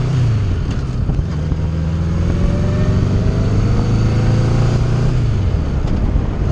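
1980 Honda Gold Wing's flat-four engine running on the move, with road and wind noise. The engine pitch climbs steadily as the bike speeds up, then falls away about five seconds in.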